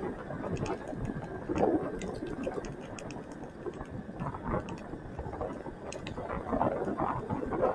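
Motorcycle running on the move, a busy mechanical chatter with road noise.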